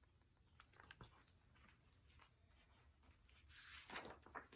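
Near silence: room tone, with a few faint soft clicks and a brief faint rustle near the end.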